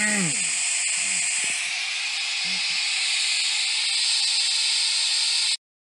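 Loud, steady static hiss, with short voice-like fragments in the first three seconds. It cuts off suddenly near the end.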